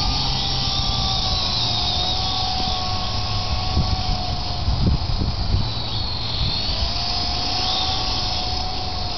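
Radio-controlled helicopter hovering: a steady motor and rotor whine that wavers slightly in pitch, over low rumbling noise with a few thumps about halfway through.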